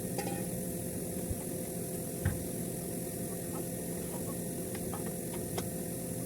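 Steady machine hum with a few faint clicks or taps, one a little louder about two seconds in.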